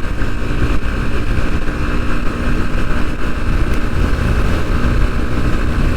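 Bajaj Pulsar NS160's single-cylinder engine running steadily under way, with wind buffeting the microphone.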